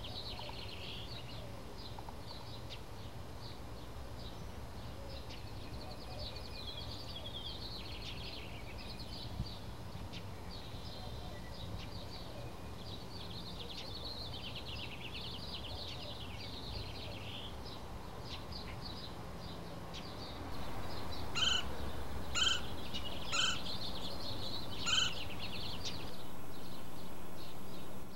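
Small birds chirping and singing over a low steady outdoor rumble. About two-thirds through, the sound changes and a Gila woodpecker gives four loud, sharp calls about a second apart.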